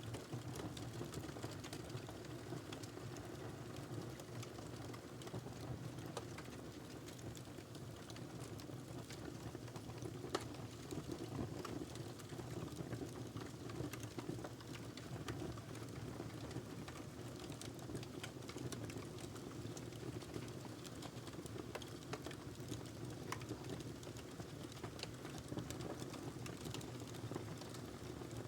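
Wood fire crackling in a fireplace: a steady low rush with many small irregular pops and snaps, one louder pop about ten seconds in.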